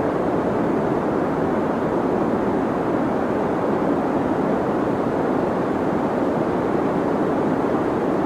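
Deep white noise for sleep: a steady, unbroken hiss weighted toward the low and middle range, dull rather than bright, with no changes.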